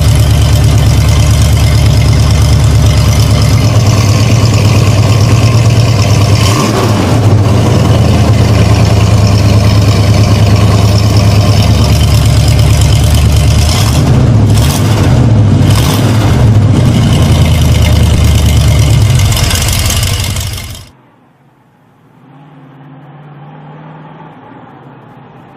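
A loud car engine running with a deep, steady note, blipped up and down in quick revs about two-thirds of the way through, then cut off abruptly. A much quieter, muffled engine hum follows near the end.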